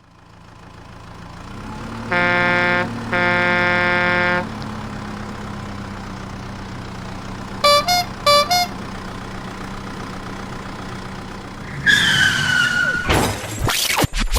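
Cartoon vehicle sound effects: a low engine drone fades in, then two long blasts of a deep truck horn, followed a few seconds later by two short higher-pitched toots. Near the end a falling tone sweeps down and music starts.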